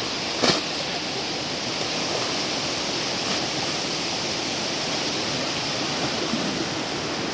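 River water rushing steadily, with one sharp knock about half a second in.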